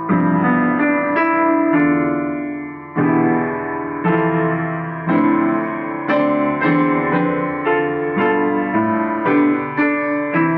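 Improvised solo piano: chords and notes struck at an unhurried pace and left to ring, settling into a steadier run of notes about two or three a second after about six seconds.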